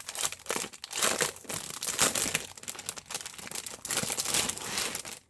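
Packaging crinkling and rustling as it is handled and unwrapped by hand, in many quick irregular rustles.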